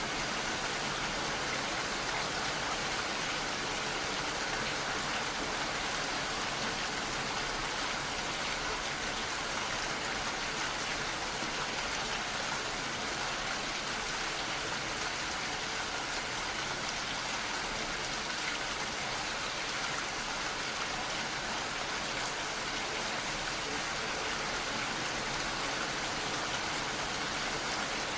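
Steady rain falling, an even unbroken hiss of many drops with no single drop or thunder standing out.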